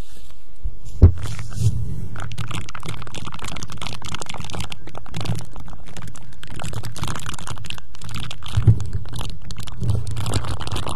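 Close-miked ASMR crackling and crinkling, dense and continuous, with a few soft low bumps on the microphone, the strongest about a second in.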